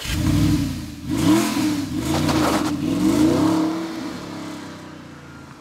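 Original Audi R8's 4.2-litre V8 accelerating away, its pitch rising and falling several times as it revs through the gears, then fading out near the end as the car drives off.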